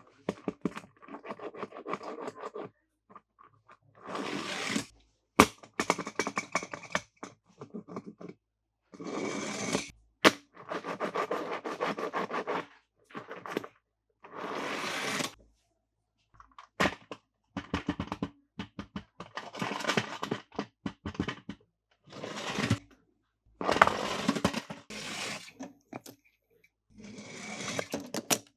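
Bursts of plastic rattling and scraping with sharp clicks and a few knocks, broken by short silences, as toy cars and their plastic packaging are handled.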